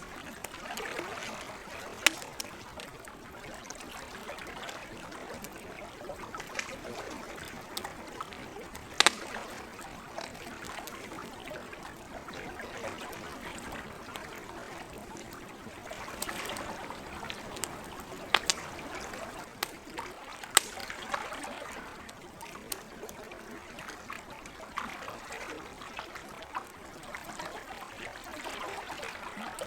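Campfire crackling, with a few sharp pops standing out over a steady wash of lake water lapping and trickling at the shore.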